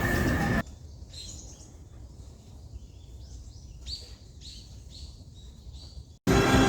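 Small birds chirping: short, high, falling chirps, several in quick succession in the middle, over a faint low background rumble.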